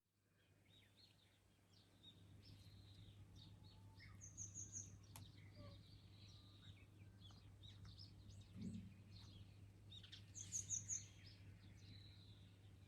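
Several small birds chirping and calling, fading in over the first two seconds, with two quick runs of very high notes about four and ten seconds in, over a faint steady low hum.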